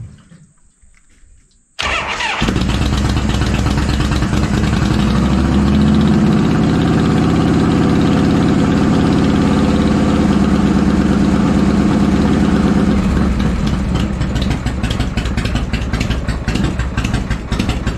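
1985 Harley-Davidson Shovelhead V-twin starting about two seconds in, catching almost at once, then running steadily on its newly fitted 5-ohm ignition coil. It settles a little lower after about thirteen seconds, with the separate firing pulses more distinct.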